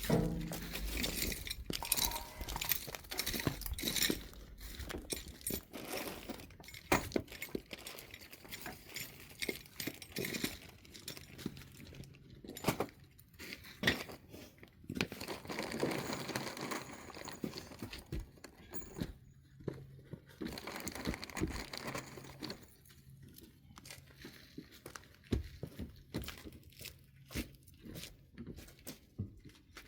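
Irregular handling noise from assembly work: scattered clicks and light knocks with stretches of rustling and crinkling, no steady machine sound.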